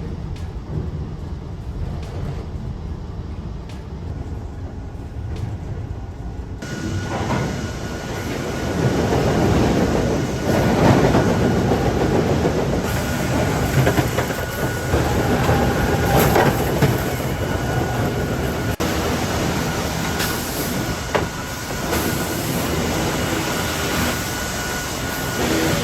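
Sawmill log-handling machinery running: a low rumble at first, then from about six and a half seconds louder clattering and knocking with a steady high whine.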